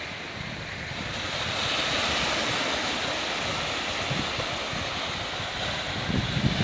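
Ocean surf washing onto a rocky beach, the rush swelling about a second in and then holding steady. Wind buffets the microphone near the end.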